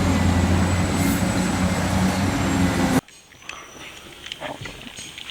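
A steady, low engine-like rumble that cuts off abruptly about three seconds in, followed by faint clicks and knocks.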